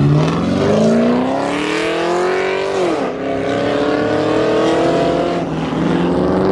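Pontiac G8 GT's V8 accelerating hard. The engine note climbs steadily, drops sharply at an upshift about three seconds in, then climbs again through the next gear.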